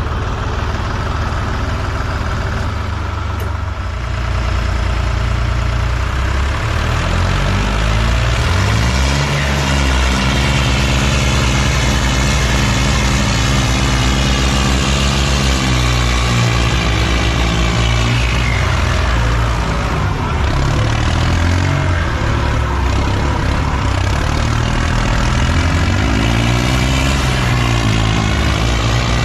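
New Holland tractor's diesel engine working hard under load, its pitch climbing from about six seconds in and then rising and falling as the revs change.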